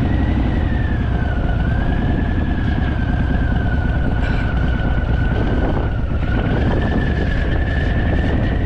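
Harley-Davidson Fat Boy V-twin running on the move, a steady low rumble of engine and wind. Over it runs a thin high whine that sinks slowly in pitch through the middle and rises again near the end.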